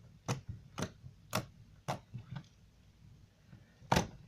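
Foam-bead sand slime being poked and squeezed by hand, making sharp clicks and pops about twice a second, fading in the middle, with one loudest pop near the end.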